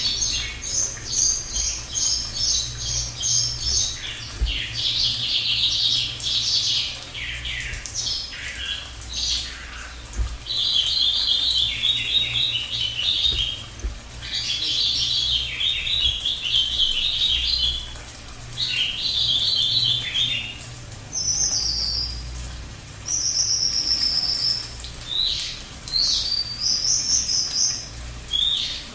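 A small songbird singing loud, high-pitched phrases of rapid stuttering trills, one every few seconds with short pauses between them. The last few phrases are shorter and higher. A low steady hum runs underneath.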